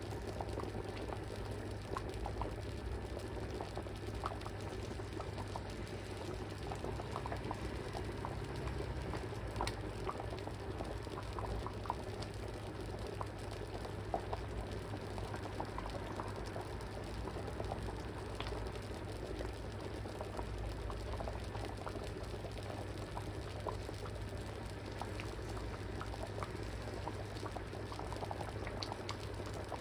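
Thick Japanese curry simmering in a pot, its surface bubbling with many small irregular pops. A steady low hum runs underneath.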